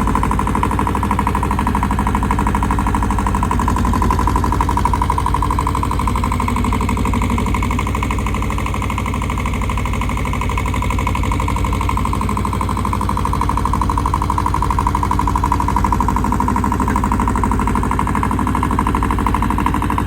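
Tractor engine running steadily with a fast, even pulsing beat. It eases off slightly about nine seconds in.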